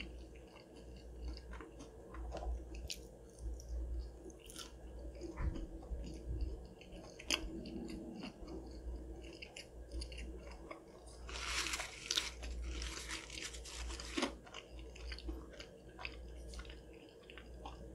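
Close-miked chewing of Chick-fil-A breaded chicken nuggets, with scattered soft crunches and a few seconds of breathy hiss a little past the middle.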